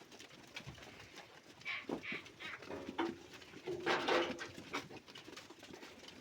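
Several short animal calls, the loudest a pair of low pitched calls about three and four seconds in.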